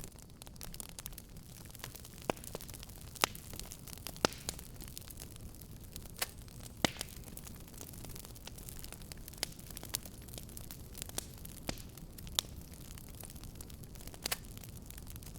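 Wood fire crackling in a fireplace: sharp snaps and pops at irregular intervals over a low, steady rumble of burning.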